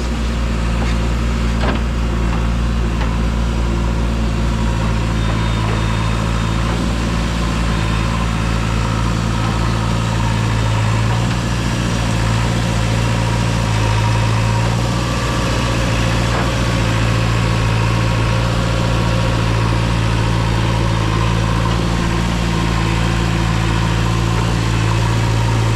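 Diesel engine idling steadily at an even, unchanging speed.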